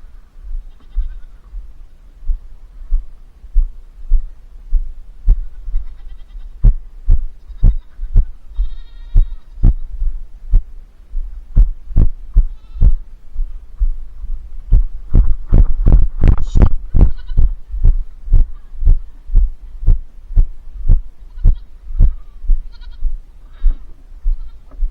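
Young goats bleating several times over a steady run of loud, deep thumps, nearly two a second.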